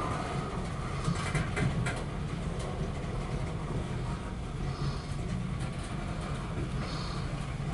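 Loaded coal train rolling past: a steady rumble of the cars on the rails, with a burst of clicks and rattles about a second in.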